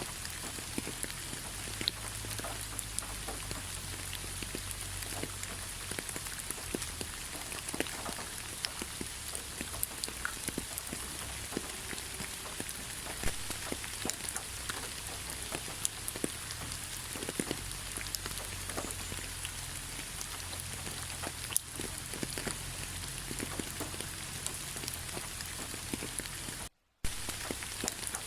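Steady rain falling, with many separate drops striking close by as sharp little ticks over an even hiss. Near the end the sound cuts out completely for a moment, then resumes.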